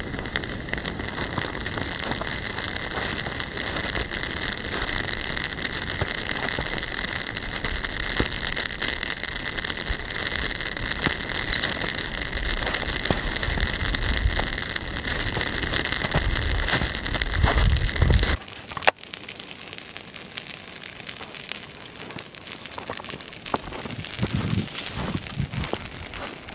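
Campfire with freshly added green pine branches burning, a dense crackling and hissing full of small pops. About 18 seconds in it suddenly becomes much quieter, with lighter crackling after that.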